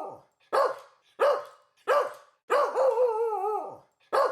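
A dog barking: three short barks about two-thirds of a second apart, then one longer drawn-out bark that wavers in pitch for about a second, then another short bark at the end.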